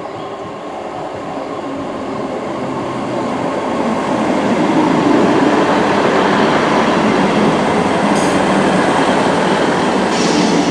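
ScotRail Class 158 diesel multiple unit running along the platform past the listener: diesel engine and wheels on the rails, growing louder over the first five seconds, then holding steady as the carriages go by.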